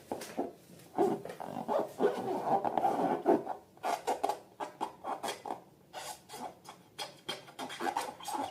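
Rubber balloons and slime being handled by hand: irregular squeaky rubbing and sticky clicking and squishing, in short uneven bursts.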